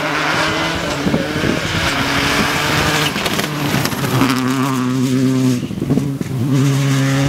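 Race car engine running loud at fairly steady revs, its pitch shifting in steps a few times.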